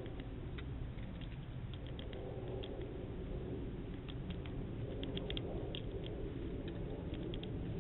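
Small birds pecking at a hanging seed-bell feeder: faint, irregular taps and clicks, some in quick clusters about four to five seconds in, over a steady low background rumble, heard through a trail camera's dull, narrow-band microphone.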